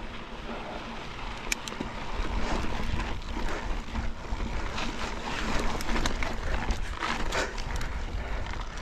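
Mountain bike riding over slickrock: a steady rumble of tyres on rock, with many sharp knocks and rattles from the bike, the pedals striking the rock again and again. The rumble grows louder about two seconds in.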